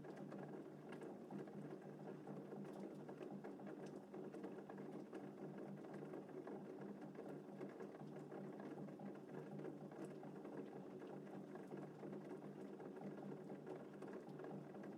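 Gentle rain falling steadily, with scattered drops ticking through it. No thunder is heard.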